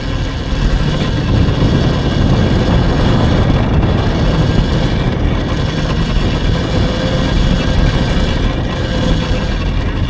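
Steady low rumble and hiss of riding an electric dirt bike over a dirt road, mostly wind buffeting and tyre noise.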